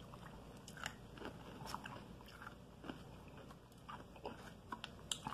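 Quiet close-up chewing of a mouthful of food, with faint, scattered crunching clicks every second or so.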